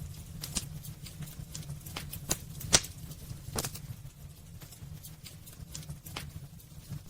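Wood fire in a fireplace crackling: irregular sharp pops and snaps from the burning logs over a steady low rumble of the flames, with the loudest pop about three seconds in.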